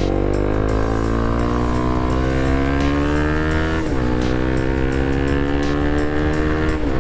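Honda CBR sport bike's engine accelerating hard through the gears: the pitch climbs, drops at an upshift about four seconds in, climbs again and drops at a second upshift near the end.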